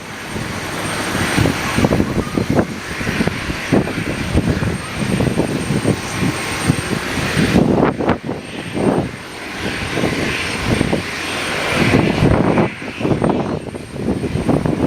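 Aircraft engines running, a steady hiss with no clear pitch, heard through heavy wind buffeting on the microphone in strong typhoon winds.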